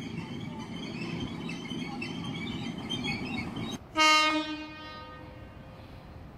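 Electric passenger train, a Sydney Trains Waratah set, rumbling past on the rails, then a short loud blast of its horn about four seconds in, a single steady note that dies away within a second.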